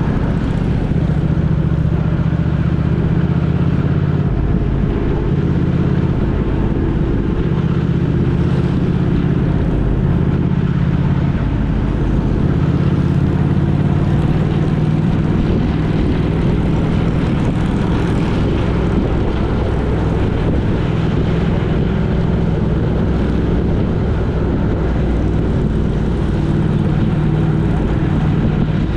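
Vehicle engine and road noise at a steady cruise: a loud, even low drone whose pitch shifts slightly now and then.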